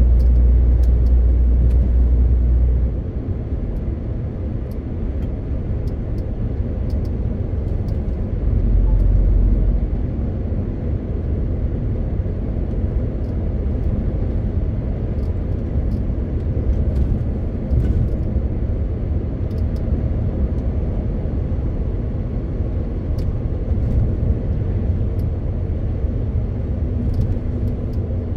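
MAN TGX 18.520 truck driving, its 12.4-litre straight-six diesel running with steady low rumble and road noise. The low rumble swells louder for the first three seconds and again for about a second and a half around nine seconds in.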